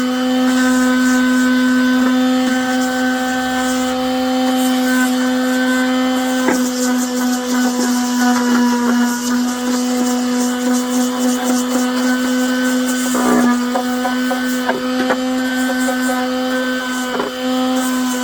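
Small handheld electric power tool motor running steadily with a high hum, its pitch dipping briefly a few times as it is loaded, with short scraping contacts.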